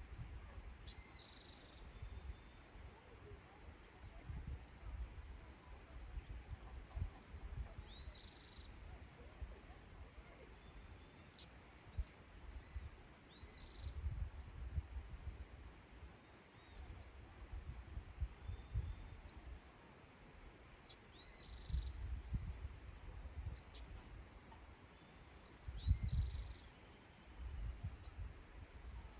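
Countryside dusk ambience: a steady high-pitched insect chorus, with short chirping bird calls every few seconds and a low, gusty rumble that comes and goes.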